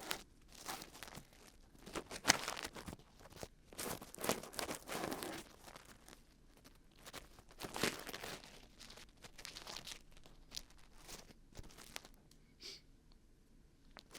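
Dried glue being peeled off the ears of a binaural microphone, heard up close as irregular crackly peeling and tearing in uneven bursts that are louder about 2, 4 to 5 and 8 seconds in, then thinning out near the end.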